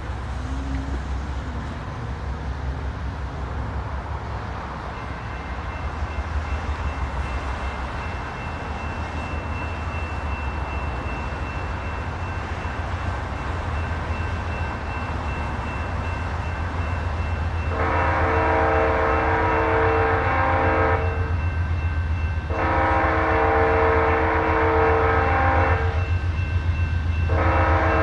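Diesel freight locomotives approaching, their engines a low steady rumble growing louder as they near. Partway through, the air horn sounds a chord in two long blasts and then a short one, the opening of the long-long-short-long grade-crossing signal.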